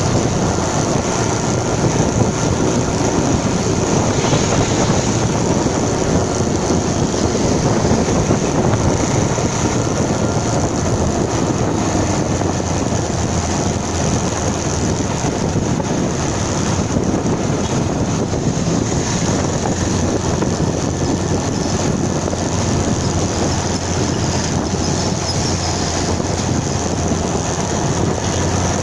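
Motorcycle riding at a steady pace, with heavy wind noise on the microphone over the engine and road noise.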